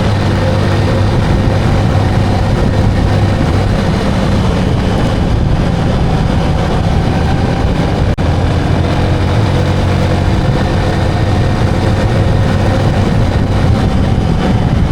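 Motorcycle engine running at a steady pace while riding, with a continuous rush of road and wind noise.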